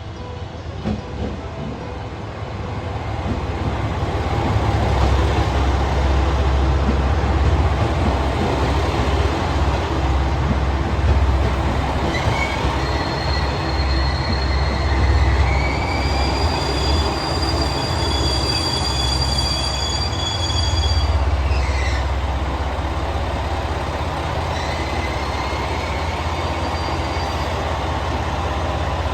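HOT7000 series diesel multiple unit pulling into a station with a low diesel rumble that builds over the first few seconds. Brakes squeal in several high tones, some rising, through the middle of the approach and cut off suddenly as the train stops. The diesel engines then keep idling.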